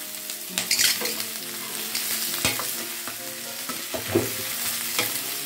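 Green beans and quail eggs sizzling in hot oil in a stainless steel wok, stirred with a ladle that scrapes and knocks sharply against the pan several times.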